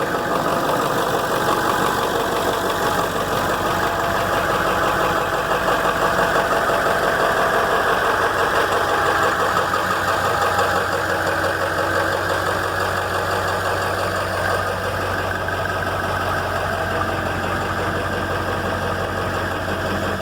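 Ford Power Stroke 7.3-litre V8 turbodiesel idling steadily with a fast, even diesel clatter, still warming up a few minutes after a cold start.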